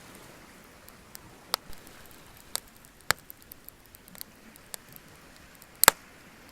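Wood fire crackling, with scattered sharp pops at irregular intervals; the loudest is a double crack near the end.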